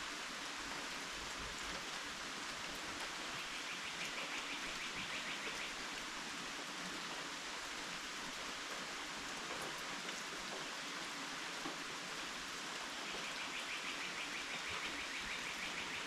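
Steady rain falling, an even hiss, with a rapid high trill heard twice, once about four seconds in and again near the end.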